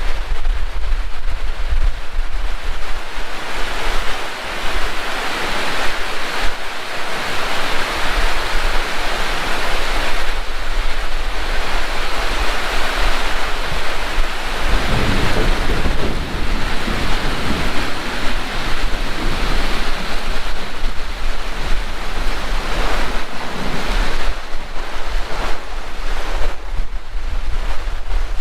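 Heavy rain pouring steadily, with low wind rumble on the microphone.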